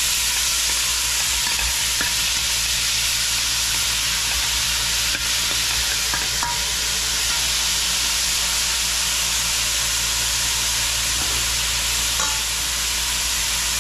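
Chopped vegetables and seasonings sizzling steadily in hot oil in a pot, with a few light knocks as they are stirred.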